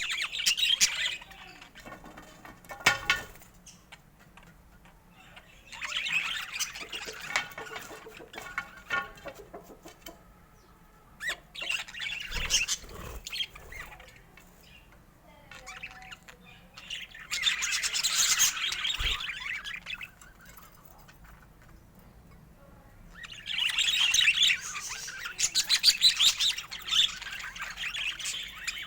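Budgerigars chirping and chattering in bursts of a few seconds, with quieter pauses between.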